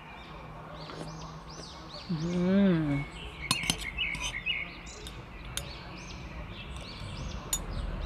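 Small songbirds chirping repeatedly, short arching calls one after another. A brief hummed 'mmm' of a voice comes about two seconds in, and a few sharp clinks of metal spoons against a glass dish fall a little after the middle.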